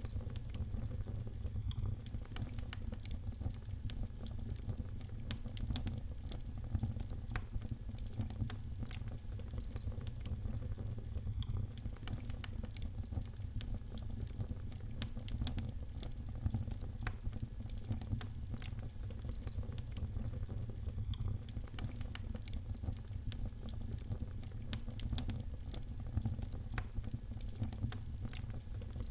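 Fire crackling in a fireplace: frequent sharp pops and snaps, irregularly spaced, over a steady low rumble.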